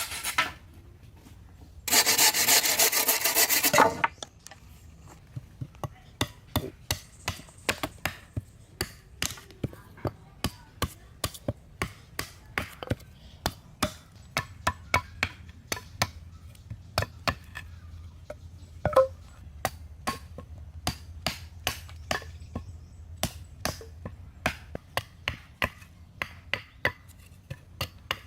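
Wood being worked by hand: a loud burst of sawing strokes lasting about two seconds, then a long run of sharp, irregular knocks on wood, two or three a second.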